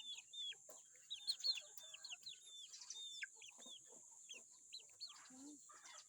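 Chickens calling: many short, high peeps falling in pitch, several a second, with a few lower clucks near the end, over a steady high hiss.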